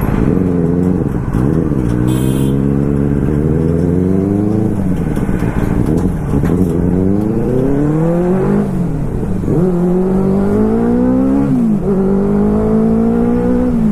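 Motorcycle engine accelerating through the gears while being ridden: the pitch climbs steadily, then falls back at each upshift, several times over.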